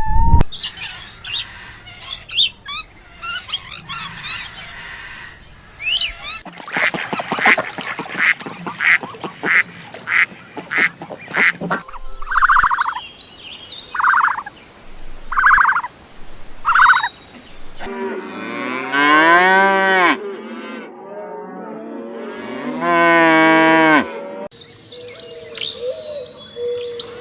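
Farm-animal calls in a row of separate clips: short repeated quacking and honking calls from ducks and geese in the first half, then two long cow moos in the second half.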